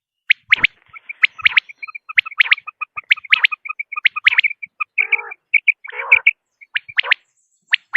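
Common quail calling: groups of sharp, quick notes repeated about once a second. A fast series of short, even chirps runs through the middle, with two brief rougher calls around five and six seconds in.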